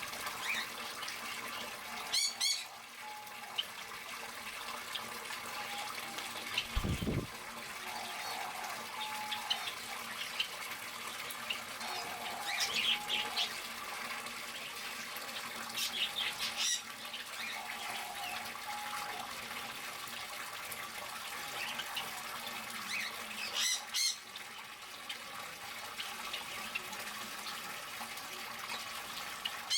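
Aviary birds calling, with sharp high squawks every few seconds and shorter mid-pitched calls over a steady hiss. A single low thump comes about seven seconds in.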